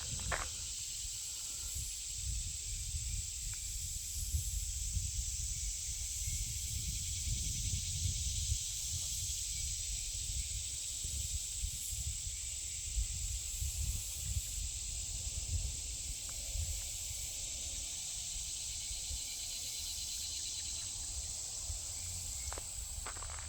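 Steady, high-pitched chorus of insects with no break, over a low, uneven wind rumble on the microphone.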